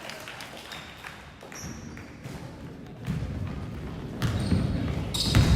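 Basketball bouncing on a hardwood gym floor, a few separate thumps about a second apart, with a low rumble of court and gym noise rising from about three seconds in.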